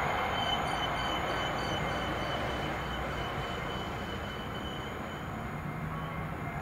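Locomotive-hauled passenger train rolling away, the rumble of its wheels on the rails fading steadily as it recedes, with a faint thin high tone over it.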